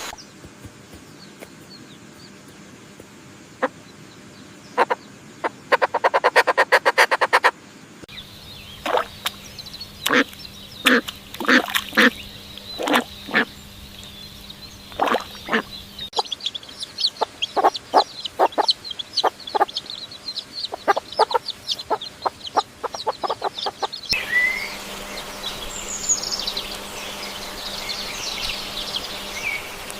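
A string of short animal sound clips that cut abruptly from one to the next every eight seconds or so. Most hold series of short, sharp farmyard fowl calls, one run coming fast and dense. High chirping bird calls follow near the end.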